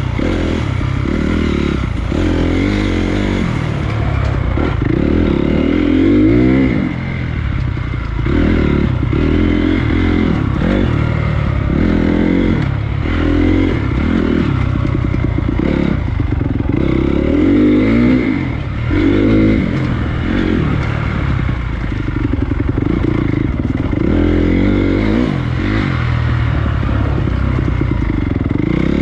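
Honda CRF250 dirt bike's single-cylinder four-stroke engine being ridden along a trail, revving up and dropping back over and over as the throttle is opened and closed every second or two.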